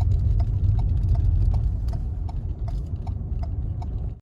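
Car turn-signal ticking steadily, about three to four ticks a second, over the low rumble of the car's cabin on the road.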